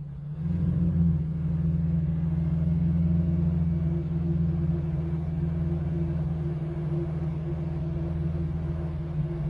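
Infiniti G35 coupe's 3.5-litre V6 running through ISR resonated test pipes and an HKS exhaust, a steady low drone while driving at an even engine speed. It swells about half a second in, then holds.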